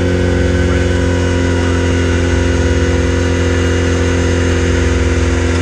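Rock-crawling buggy engine running loud and steady at one unchanging speed.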